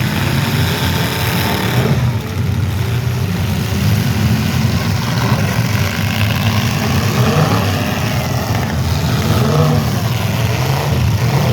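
Several demolition derby cars' engines running together, with engines revving up and dropping back a few times.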